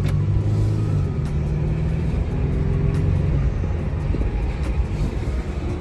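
Infiniti G37's VQ37VHR V6 running steadily as the car drives gently, heard from inside the cabin with road and tyre rumble. The steady engine drone eases off about halfway through, leaving mainly road rumble.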